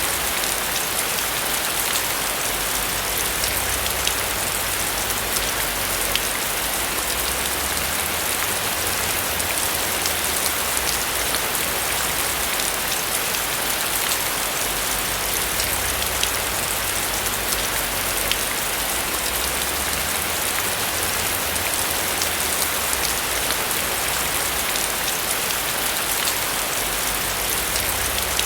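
Steady rain on a roof: a dense, even patter of drops with many fine ticks.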